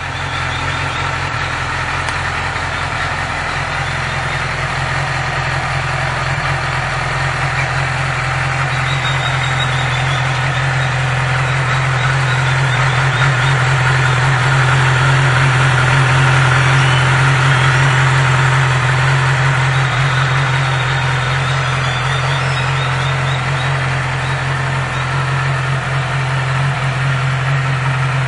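2012 Yamaha R6's inline-four engine idling steadily, swelling slightly in level about halfway through.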